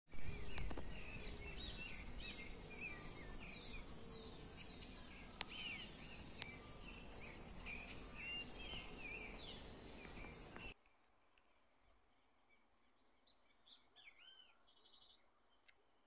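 Birds calling, many quick chirps and descending whistled notes, over a steady low rumble of wind. About eleven seconds in the rumble and most of the calling cut off abruptly, leaving a few faint chirps.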